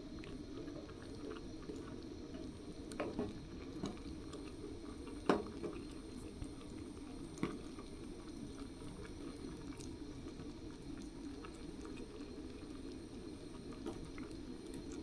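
Pot of beans and hot dogs simmering and bubbling as it heats, with a few sharp clicks, the loudest about five seconds in.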